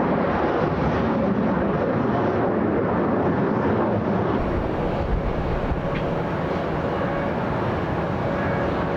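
Jet airliner engines, a steady, dense rumble, easing slightly in the second half.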